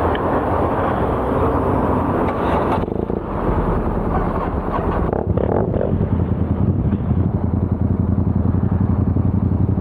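Motorcycle engine idling with a fast, even exhaust pulse. A broad rushing noise lies over it for about the first three seconds, then drops away, leaving the idle on its own.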